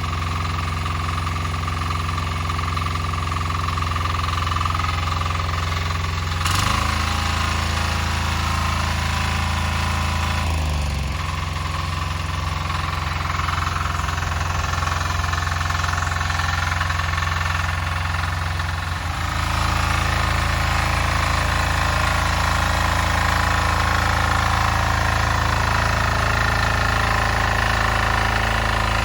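Single-cylinder diesel engine of a Weima walk-behind tractor running with a knocking diesel clatter while tilling. Its note shifts about six seconds in, slides down around ten seconds, and changes again and gets a little louder about nineteen seconds in.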